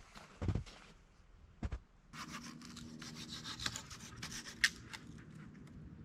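Two soft knocks, then from about two seconds in a continuous rubbing, scraping sound with crackles through it and one sharp click near the end.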